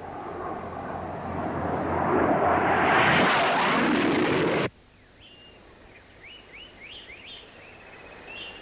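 Skyhawk jet aircraft passing, growing louder and louder before cutting off abruptly about four and a half seconds in. Birds then call with quick, short chirps.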